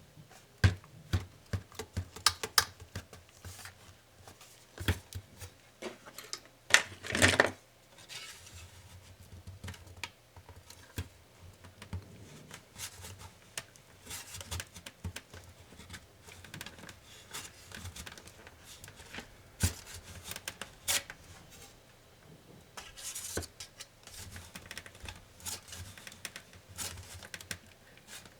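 Acer Swift SFX14-41G laptop parts being handled and pried apart by hand: scattered small clicks and taps of plastic and metal, with a few short scraping, tearing sounds, the loudest about seven seconds in.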